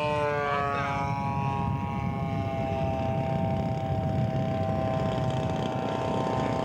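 Radio-controlled scale model airplane's engine throttled back on its landing approach. Its pitch falls in the first second, while a second engine tone briefly rises across it, then it runs steadily. A low rumble of wind on the microphone runs underneath.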